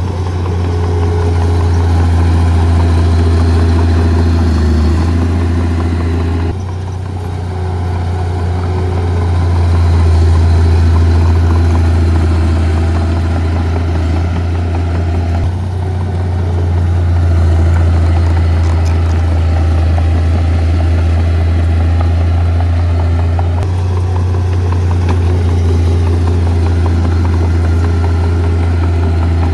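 Heavy diesel engine of earth-moving equipment running steadily with a strong low hum, its sound changing abruptly three times.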